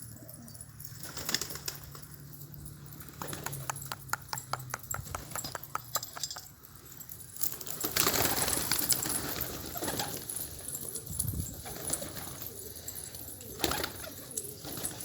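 Domestic pigeons cooing, with a quick run of clicks about four seconds in and a louder rush of noise about eight seconds in.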